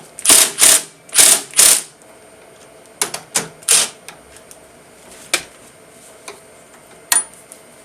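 A tool change on a CNC milling machine: four short loud noisy bursts in quick succession, then scattered clicks and knocks of tooling being handled, and one sharp metallic clink about seven seconds in.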